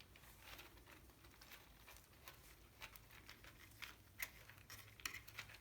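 Faint, scattered ticks and scratches of kittens scrambling and pawing about in a litter box.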